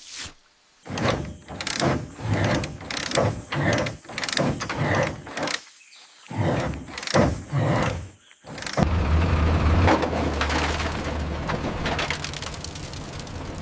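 A run of irregular metallic knocks and scrapes. Then, about nine seconds in, a machine's engine starts a steady low drone that runs on.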